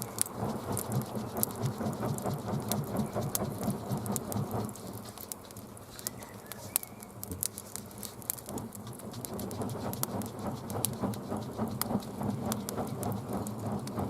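Wood campfire crackling with frequent sharp pops while it is fanned, a rhythmic whoosh of air at two or three strokes a second. The fanning pauses for a few seconds in the middle and then resumes. The fire is catching after being fanned to life.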